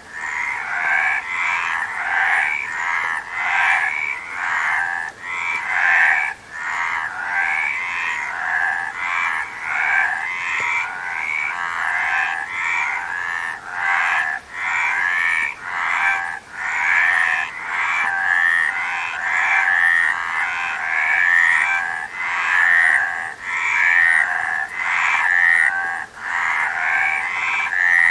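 A chorus of frogs croaking, the calls overlapping and following one another in quick succession without a pause.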